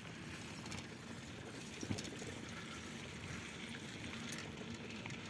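Riding noise from a bicycle: a steady rumble of tyres and air, with a few light clicks.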